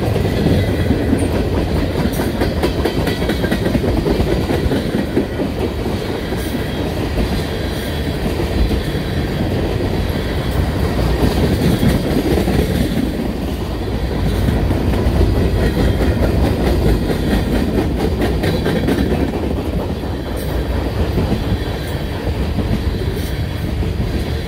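Mixed manifest freight train's cars rolling past close by: a steady, loud rumble of wheels on rail with rapid clicking as the wheels cross rail joints.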